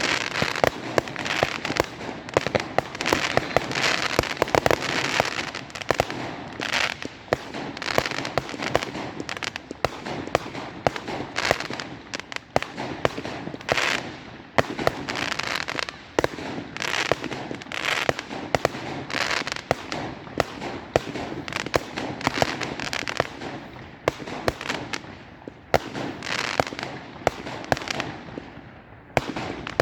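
Fireworks going off in rapid succession: a dense stream of sharp bangs and crackling, with a short lull near the end before another loud bang.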